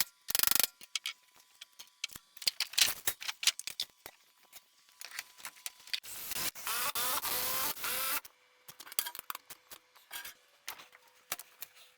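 Irregular clicks, taps and clattering of objects being handled, with a louder two-second stretch of rasping noise about six seconds in.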